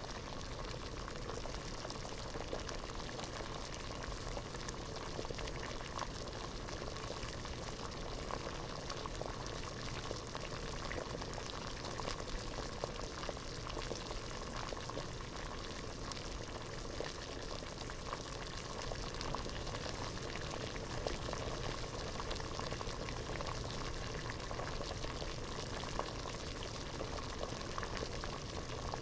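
Water at a rolling boil in a pot, a steady bubbling with many small pops and crackles.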